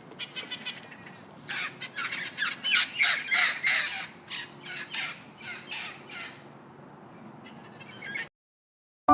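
A bird's harsh, rapid calls, about two to three a second, fading out after about six seconds.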